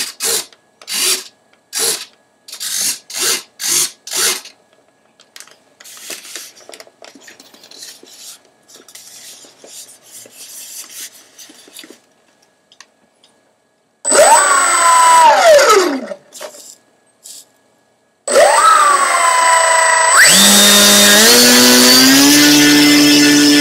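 An RC model plane's electric motor spinning its propeller in a ground test. It is run up briefly and winds down with falling pitch about 14 seconds in, then starts again at about 18 seconds and climbs to a steady high whine held to the end. It follows a run of sharp clicks at about two a second and some faint scratching.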